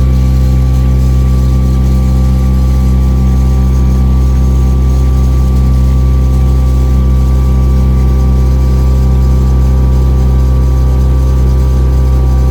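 Cruise boat's engine running at a steady speed: a constant low drone with several pitched tones and no change in speed.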